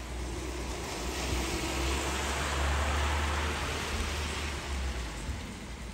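Rain falling as a steady hiss that swells into a louder rush, with a low rumble, for a few seconds in the middle before easing back.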